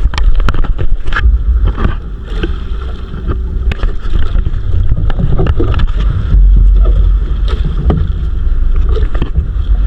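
Wind buffeting the microphone aboard a small wooden fishing boat (bangka), with repeated knocks and clatter on the boat throughout.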